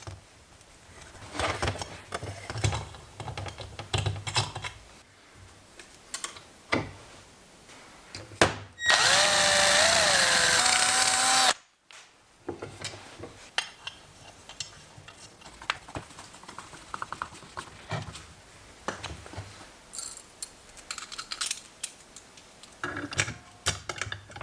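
A power tool's motor runs for about three seconds near the middle, its pitch dipping and rising as it works. Around it come scattered clicks, taps and scrapes of tools and parts being handled.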